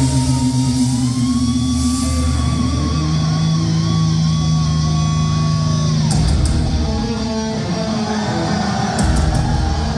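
Live heavy metal band through a concert PA: distorted electric guitar holds a high, wavering note that bends down in pitch about six seconds in, over sustained low guitar and bass notes.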